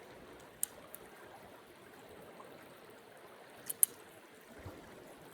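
Small creek running steadily, a soft even rush of water. A few sharp clicks cut through it, once about half a second in, once near one second, and two in quick succession near four seconds in, the last the loudest.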